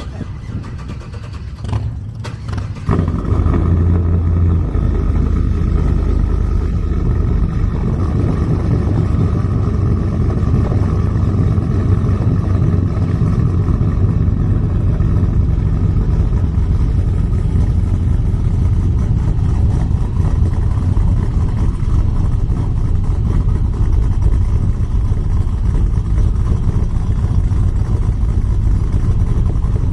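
Vehicle running on the road: a loud, steady low rumble of engine and road noise that sets in abruptly about three seconds in and holds evenly.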